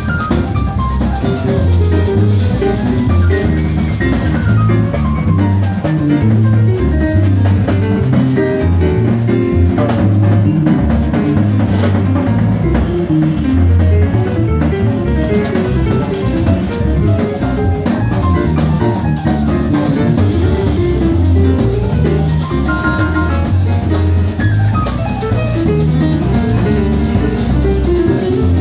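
Jazz combo playing, with a bass line carrying prominent low notes under a drum kit and other pitched instruments.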